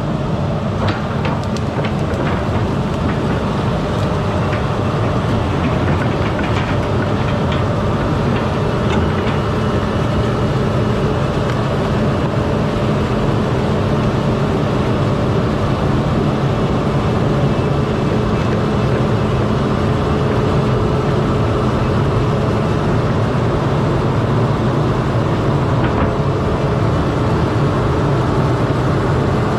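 Excavator's diesel engine running steadily, with scattered knocks and clicks during the first several seconds.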